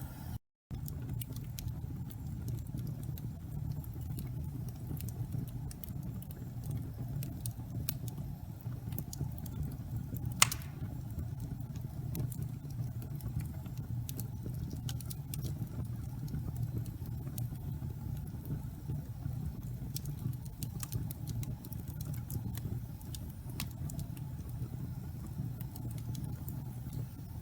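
Wood fire burning in a fireplace: a steady low rumble of the flames with scattered crackles from the burning wood and one loud pop about ten seconds in.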